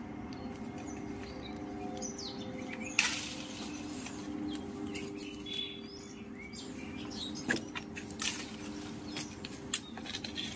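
Small birds chirping, over a steady low hum, with a few sharp knocks and rustles; the loudest knock comes about three seconds in and a few smaller ones near the end.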